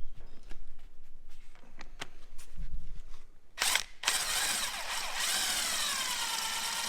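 A few scattered clicks and knocks of tools on metal, then from about four seconds in a handheld power tool runs continuously with a whine that wavers in pitch.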